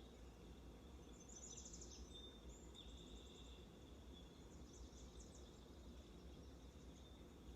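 Faint outdoor ambience: wild birds chirping and trilling in short phrases, about a second in and again near the middle, over a steady low rumble.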